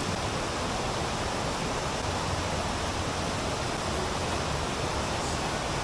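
Waterfall rushing: a steady, dense hiss of falling water that never lets up.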